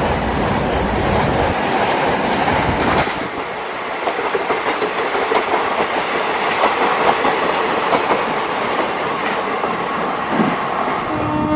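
A train running past: steady rolling noise, with wheels clicking over the rail joints. A heavy low rumble drops away about three seconds in, leaving the lighter clatter of the passing wagons.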